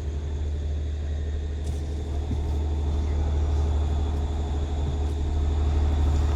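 Heavy engine running steadily nearby: a low, even rumble that grows slightly louder over the few seconds.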